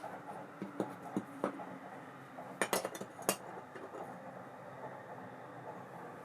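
Small metal parts of an Ambassadeur 5500C baitcasting reel clicking and clinking as they are handled, with a few sharper clinks about two and a half to three and a half seconds in.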